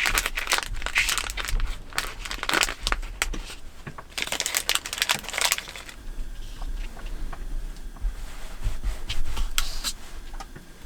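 Crinkling and rustling of something being handled at close range, in dense bursts for about the first six seconds, then a few lighter clicks and rustles, over a faint low rumble.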